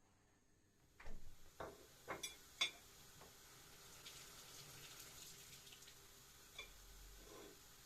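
A kitchen tap turned on and running, with a few clinks and knocks of dishes in the sink, the knocks clustered in the first couple of seconds and two more near the end.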